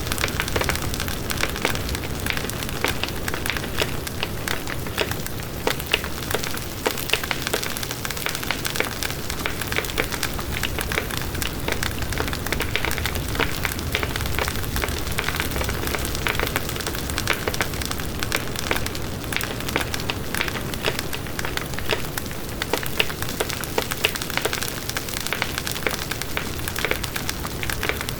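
Campfire burning with a continuous dense crackle of many small pops and snaps over a steady rushing hiss.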